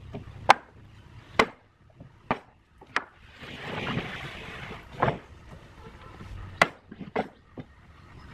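Wood being struck with a hand tool: about seven sharp, irregular knocks, with a longer rasping scrape between them about three and a half seconds in.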